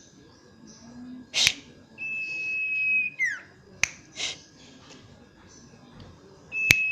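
Common iora (cipoh) singing: a long, steady high whistle held about a second that ends in a quick downward slur, heard about two seconds in and again near the end. A few sharp clicks fall between the phrases.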